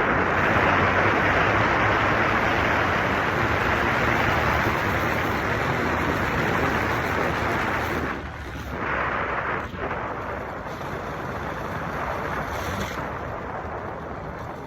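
Riding on a motorcycle: wind rushing over the microphone with the engine running underneath. The rush drops briefly about eight seconds in and stays a little lower after.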